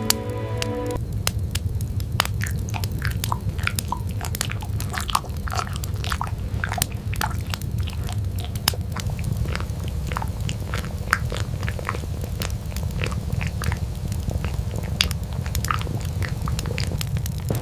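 Wood fire crackling, with many irregular sharp pops over a steady low rumble.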